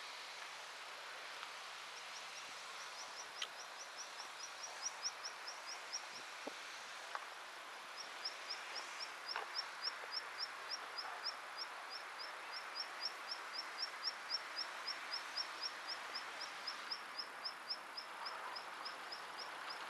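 A small bird repeating a short, high chirp about four to five times a second, in long runs with a pause of about two seconds, over a steady background hum of distant traffic.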